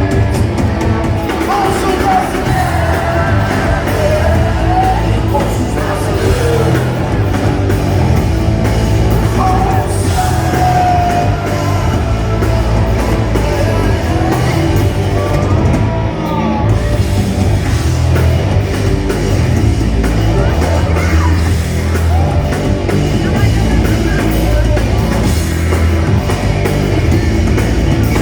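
Rock band playing live, a lead voice singing over drums, bass and guitars.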